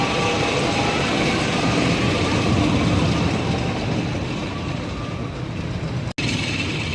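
Storm Chaser roller coaster train running along its track: a steady rumble. The sound cuts out briefly about six seconds in.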